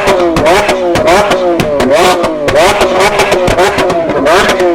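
Sports car engine being revved in quick repeated blips, its pitch rising and falling about twice a second, with sharp crackles between them.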